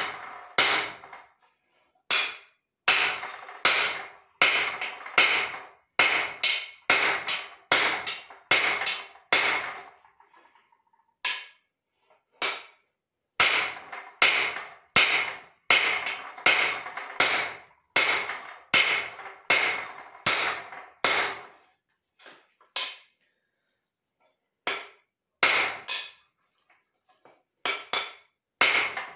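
Hand hammer striking leaf-spring steel on an anvil, about two blows a second, each blow ringing, with a couple of short pauses between runs of strikes.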